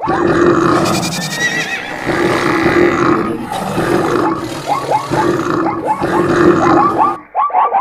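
Layered animal calls and cries of a stampede soundtrack, in short repeating bursts about once a second over a steady tone.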